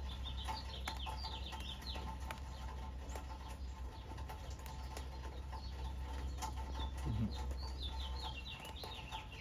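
Bird chirping: two runs of short, quick, downward-sliding high chirps, one right at the start and another near the end, over a steady low hum.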